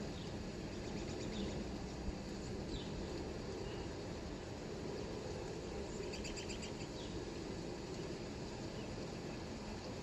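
Outdoor birds chirping: a few short calls in the first three seconds, then a quick trill of about five notes a little after six seconds in, over a steady low background hiss.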